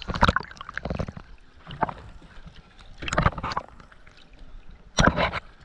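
Water slapping and splashing around a dive boat in irregular short bursts, some with sharp knocks.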